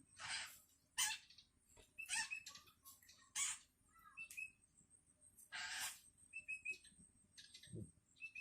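Long-tailed shrike (cendet) chicks giving harsh, raspy begging calls, one every second or two, with a few short thin chips between them: hungry young calling for food. A low thud comes near the end.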